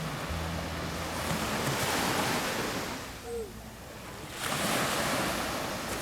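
Sea waves breaking and washing onto a sandy beach, in two swells with a lull between them about halfway through.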